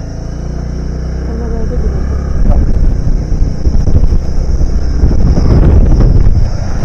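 Vehicle driving on a rough mountain road: the engine hum grows louder, then from about two and a half seconds in a loud, rough rumble of wind buffeting and road noise takes over.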